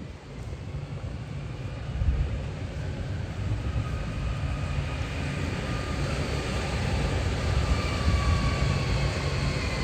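A city tram approaching and growing steadily louder: a low rumble with a high whine that slowly falls in pitch.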